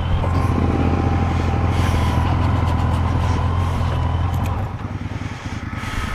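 Heavy vehicle's engine running with a loud, low rumble as it labours to pull away, easing off about four and a half seconds in. It is called a noisy one.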